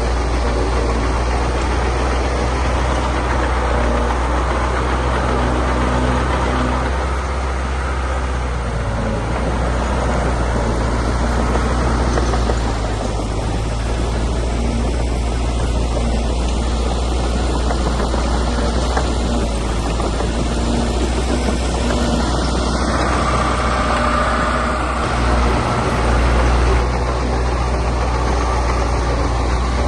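Heavy diesel earthmoving machinery running steadily, with a continuous low engine drone and mechanical clatter.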